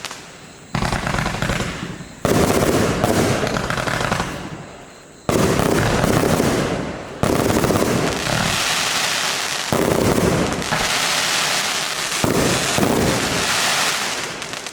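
Compound firework cake, the J-Fireworks Power King with 25 and 30 mm tubes, firing six rapid volleys a second or two apart. Each volley is a dense run of bangs and crackle that dies away. These are the closing seconds of the cake's run.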